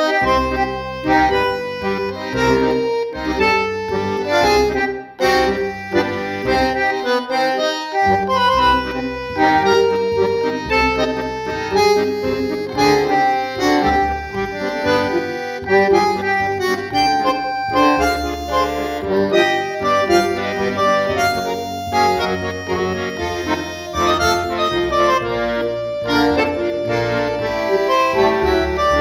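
Accordion music: a melody played over bass notes.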